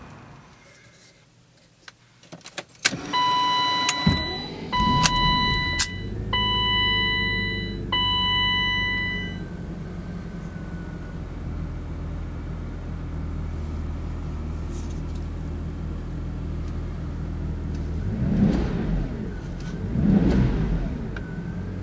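BMW 850CSi's 5.6-litre V12 being started: a few clicks, then a four-note dashboard chime sounds as the engine cranks and catches. The engine then settles into a steady idle and is revved briefly twice near the end.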